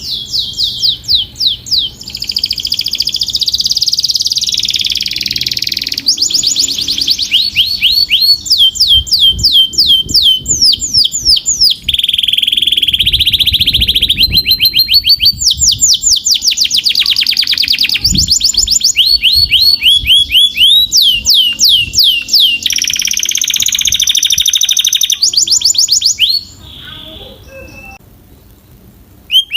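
Domestic canary singing: loud, rapid trills of repeated falling notes, each run switching to a new trill every second or two. The song breaks off near the end for a short, quieter pause.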